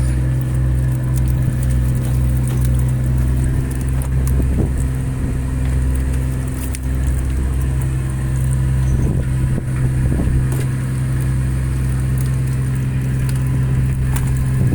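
A fishing boat's engine running steadily: a constant low drone with a deep hum, with a few faint knocks and clicks on top.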